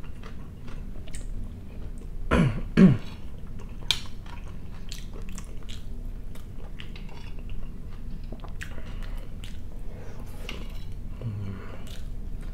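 Close-up chewing of fried potatoes with chanterelle mushrooms, with small clicks of a fork on a plate. About two and a half seconds in come two short vocal sounds from the eater, the loudest part.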